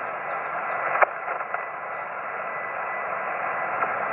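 Yaesu FT-891 receiving single sideband: a steady band-noise hiss from the radio's speaker, cut off sharply above the voice passband, with a faint steady tone and a sharp static crackle about a second in.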